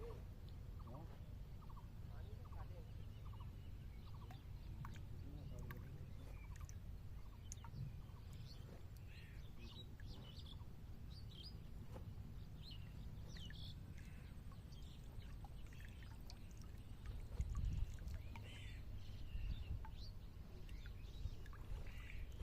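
Outdoor ambience: a steady low rumble with scattered short bird calls, thickest in the middle and again near the end, and a dull low bump about two-thirds of the way through.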